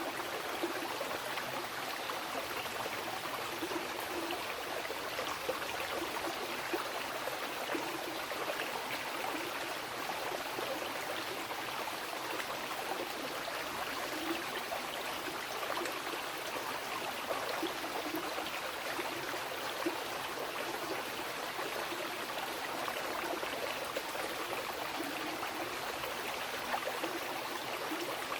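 Mountain river rushing steadily over rocks, with small splashes and gurgles.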